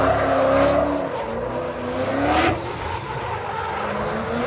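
Dirt bike engine revving, its pitch repeatedly rising and falling, with a sharp rev up about two and a half seconds in.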